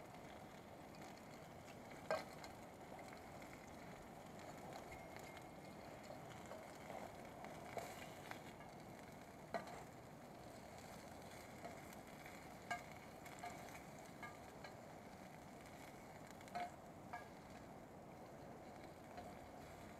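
Food sizzling faintly in a frying pan on low heat, with scattered pops and crackles, the loudest about two seconds in.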